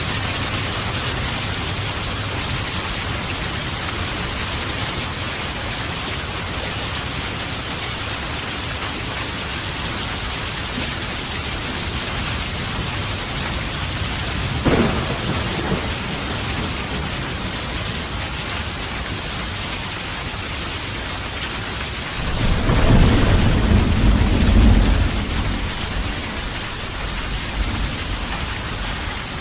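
Steady heavy rain with thunder: a sharp crack about halfway through, then a loud, low rolling rumble lasting a few seconds.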